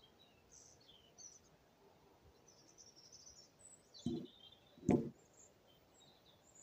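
Birds chirping faintly, with two dull thumps about four and five seconds in, the second sharper and the loudest sound.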